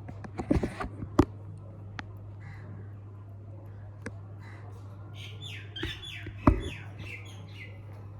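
Green parrot calling: a quick run of short, falling squawks from about five seconds in. A few sharp knocks come near the start and one loud thump in the middle of the calls, over a steady low hum.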